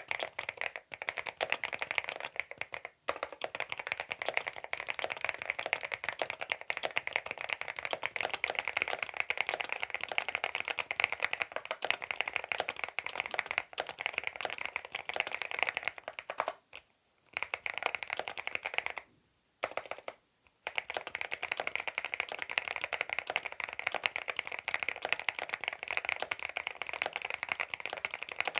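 Fast, continuous typing on a CIDOO V87 aluminium mechanical keyboard with linear switches: a dense run of key clacks, broken by two short pauses a little past the middle.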